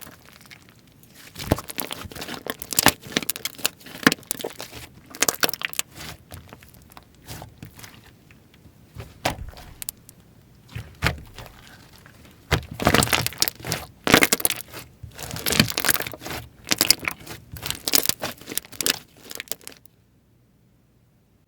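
Hands pressing, folding and stretching slime, giving bursts of sticky crackling and popping clicks with short pauses between them. The sound cuts off suddenly near the end.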